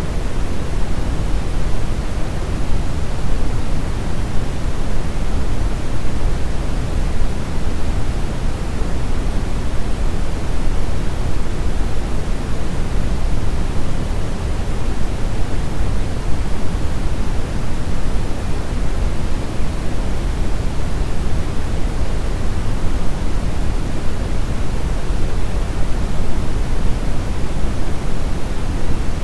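Steady, unchanging brown noise: a continuous low, rumbling hiss, strongest in the bass and rolling off toward the treble.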